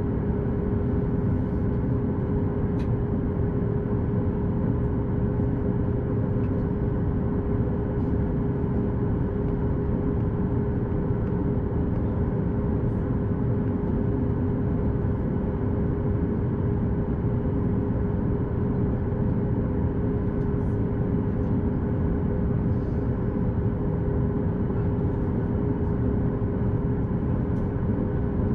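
Cabin noise inside a Boeing 737 MAX 8 on the ground after landing: a steady low rumble from the idling CFM LEAP-1B engines and the cabin air, with a constant hum running through it.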